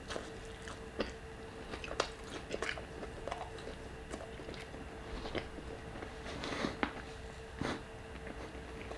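Biting and chewing crispy fried chicken breast: the crunchy fried crust crackles in irregular clicks, a few louder crunches among them. A faint steady hum runs underneath.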